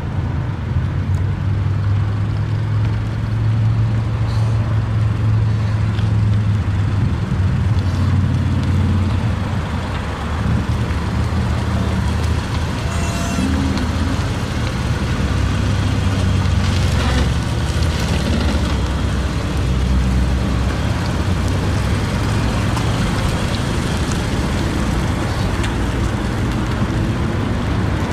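Car on the move: a steady low engine hum under continuous road and wind noise.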